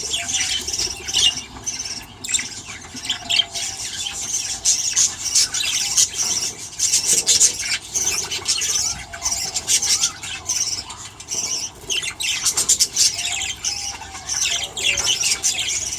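Budgerigars chattering and chirping, many short calls overlapping.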